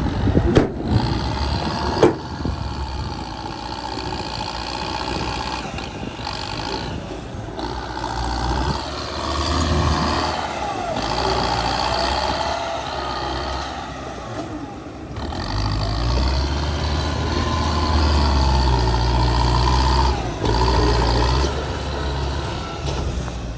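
Truck engine running, its note rising and falling with load, with a couple of sharp knocks in the first two seconds.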